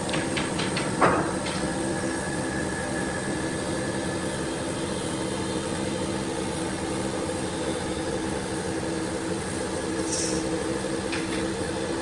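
A workshop machine running steadily with a constant hum, with a few light clicks near the start, a sharper knock about a second in, and more clicks near the end.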